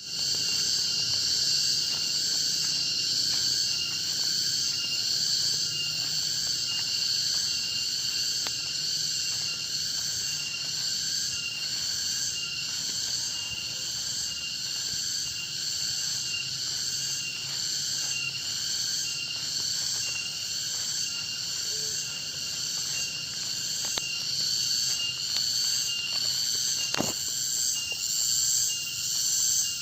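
Dense chorus of tropical forest insects: a continuous high-pitched buzzing and shrilling in several layers, pulsing at an even rate. One sharp click is heard near the end.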